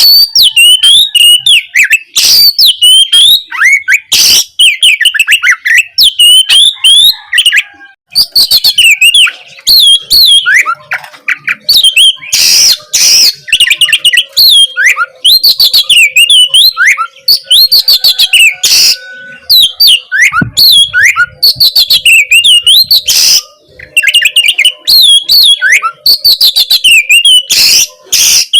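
Oriental magpie-robin (kacer) singing a loud, continuous, fast song of varied whistles and sweeping notes. Harsh rasping notes cut in now and then.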